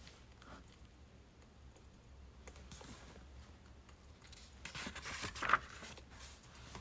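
Birch-wood fire crackling softly with scattered small pops, and a louder flurry of crackles about five seconds in.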